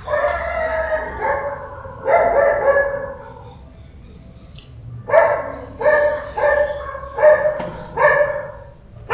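A dog calling: two drawn-out calls, then a run of about seven short barks, roughly two a second.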